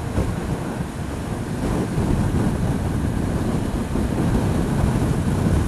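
Wind rushing over the microphone of a camera on a moving motorcycle, a steady buffeting rush heaviest in the low end.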